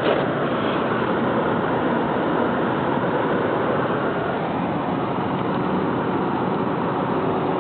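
Car driving on a snowy road: a steady rush of road and engine noise.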